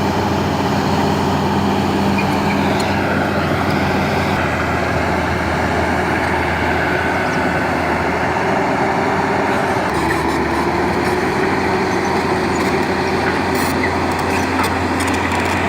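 Large excavator's diesel engine running steadily under load, a continuous low hum whose pitch shifts slightly about ten seconds in.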